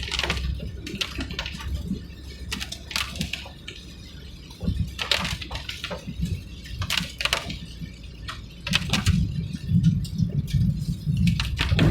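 Vehicle on the move: a low road rumble with irregular clicks and rattles. The rumble grows louder over the last few seconds.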